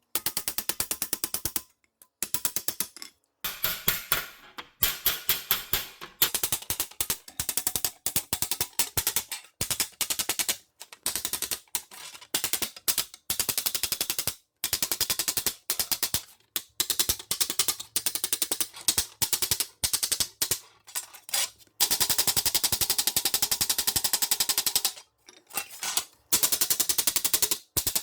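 Rapid, evenly spaced mechanical tapping that runs in stretches of a few seconds, stopping briefly and starting again.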